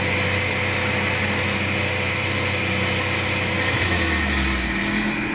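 Volkswagen Polo petrol engine running steadily at raised revs, around 4000 rpm, heard from inside the cabin; its note drops slightly about four seconds in.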